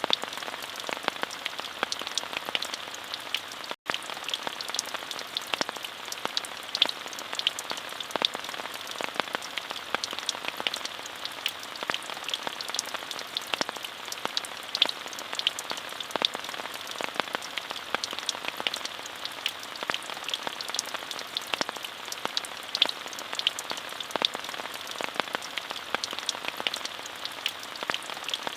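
Steady rain falling, an even hiss with many distinct drops ticking through it. The sound drops out for a split second about four seconds in.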